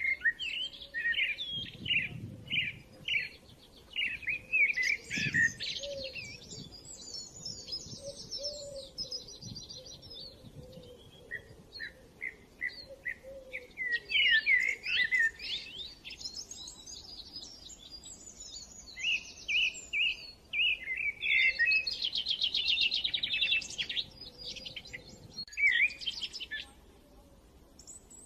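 Songbirds chirping and trilling: quick runs of short high chirps and fast buzzy trills, in bursts with short pauses.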